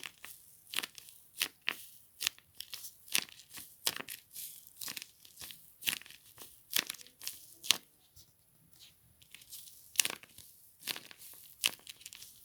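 Paper and tape crinkling and crackling as a homemade paper squishy is handled and squeezed, in irregular short crackles about two a second.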